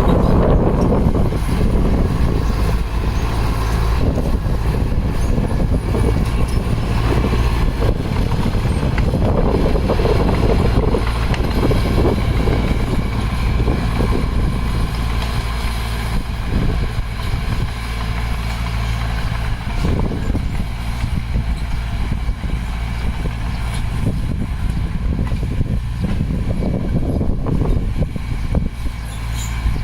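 Heavy earthmoving machine's diesel engine running steadily, with irregular clatter and rumble over it.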